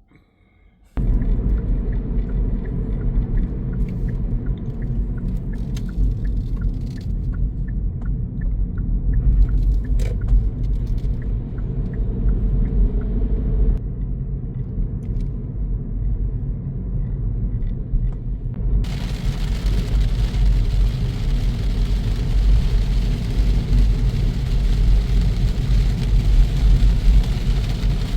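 Heavy truck's diesel engine running with a loud, low rumble, starting abruptly about a second in. A faint regular ticking sits over it in the first half, and a steady hiss of road and wind noise joins later on.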